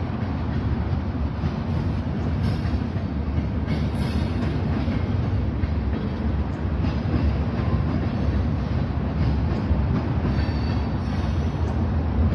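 A train running past on the rails: a steady low rumble of wheels on track, with a few faint clicks.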